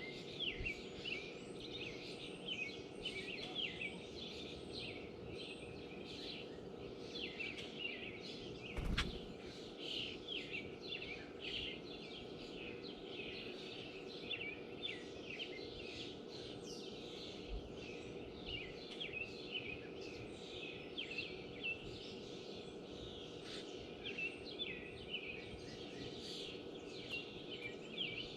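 Small birds chirping rapidly and almost continuously, short high calls overlapping one another, over a low steady hum. One knock about nine seconds in.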